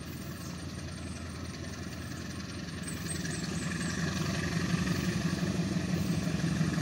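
Diesel locomotive engine running with a steady low hum that grows steadily louder as the train approaches.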